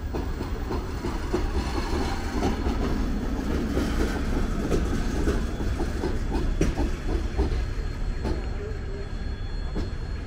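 Passenger coaches of an arriving train rolling slowly past, a steady rumble with irregular clacks from the wheels over the rail joints.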